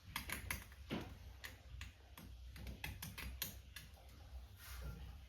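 Steel scriber scratching and tapping on a marker-coated metal part while marking out a hole position: irregular sharp clicks and short scrapes, over a low hum.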